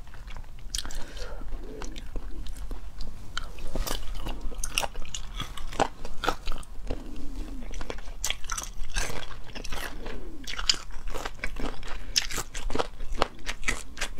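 Close chewing of braised chicken feet, with many sharp, irregular crunches as the teeth work through skin, cartilage and small bones.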